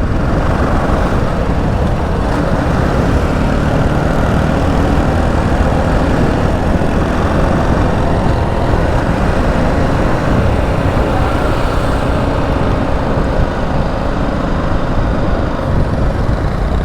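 Steady, loud motorcycle ride noise: wind rumbling on the microphone over the running engine of a BMW G 310 GS single-cylinder motorcycle, with no change throughout.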